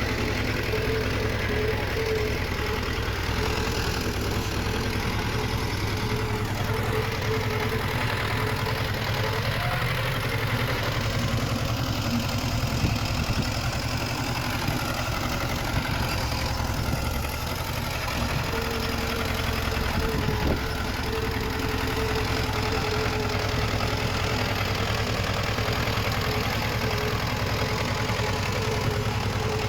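Heavy-equipment diesel engine running steadily under light load, with a held mid-pitched tone and a couple of faint knocks.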